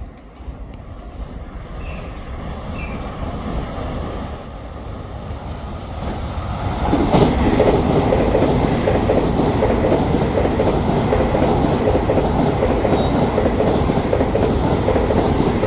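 A Taiwan Railway train passing through a station without stopping: it builds from a distant rumble over several seconds into a loud, steady rush of wheels on rail with rapid clicking over the rail joints.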